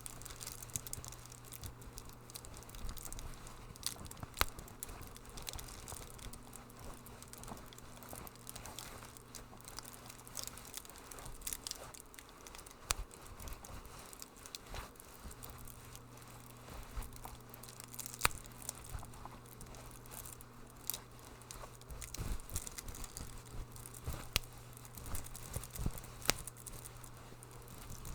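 Wood fire crackling in a fireplace: irregular sharp pops and snaps over a soft hiss, with a steady low hum underneath.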